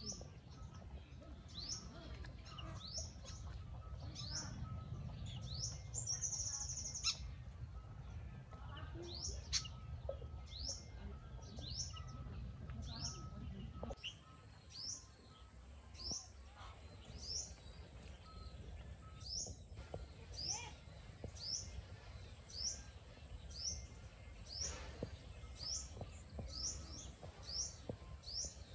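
A bird chirping over and over, short rising chirps slightly more than once a second, over a low background rumble that drops away suddenly about halfway through.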